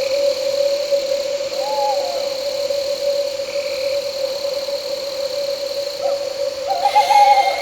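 Owl hooting twice, a short call about two seconds in and a louder, wavering one near the end, over a steady chorus of crickets and night insects with a constant humming tone.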